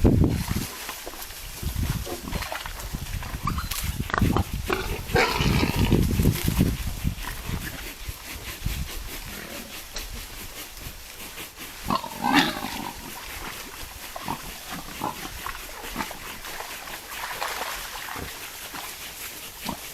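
Wild boars grunting and squealing, with a sharper squeal about twelve seconds in, over low rumbling noise close to the microphone.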